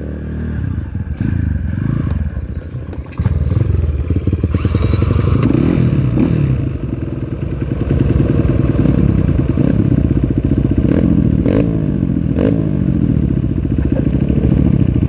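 Trail dirt bike engine revving up and down repeatedly under load, louder from about three seconds in, with some clattering knocks.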